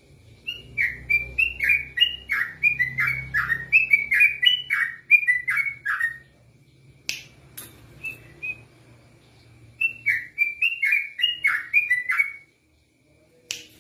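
A yellow-vented bulbul (trucukan) sings in rapid, fast-repeated bouts of short down-slurred whistled notes. There are two long bouts with a pause of a few seconds between them, and a couple of sharp clicks in the pause.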